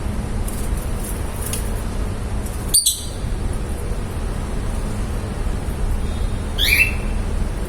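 Lovebirds giving two short, sharp, high chirps, one about three seconds in and a falling one near the end, over a steady low rumble.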